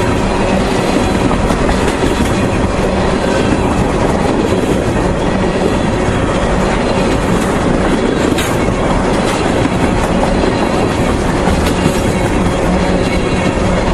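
Freight train of railroad tank cars rolling past, a steady, loud rumble of steel wheels on rail with faint clickety-clack.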